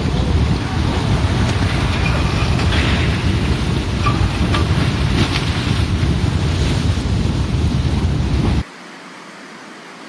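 Mudslide coming down a mountain: a heavy, continuous low rumble with a few scattered knocks, mixed with wind on the microphone. It cuts off suddenly about eight and a half seconds in, leaving a faint hiss.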